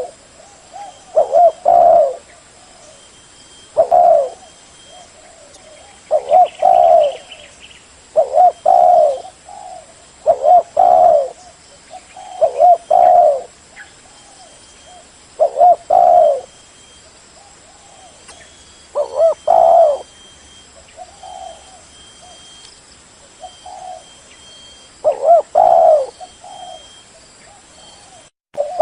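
Spotted dove cooing: a string of short, low coo phrases repeated about once every two seconds.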